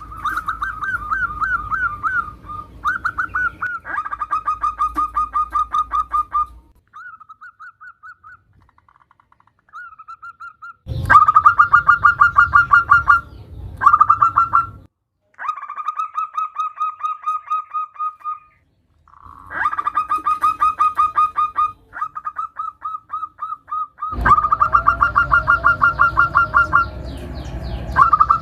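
Female zebra dove (perkutut) calling: runs of fast, evenly pulsed cooing notes, repeated in bouts a few seconds long with short pauses between, a quieter stretch about a quarter of the way through. This is the call a hen perkutut uses to draw males to answer.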